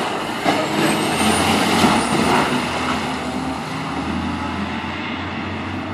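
Fire apparatus driving past: engine and road noise swelling to its loudest about two seconds in, with a faint high whine that rises about a second in.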